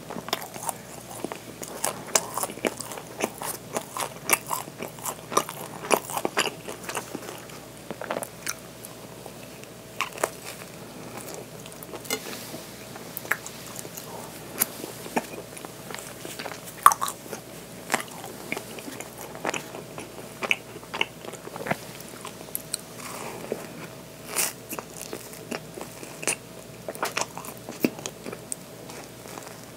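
A person chewing and biting bakery bread, including bites into a chocolate cornet, a bread horn filled with chocolate cream. There are many short clicks and crackles, irregular but continuous.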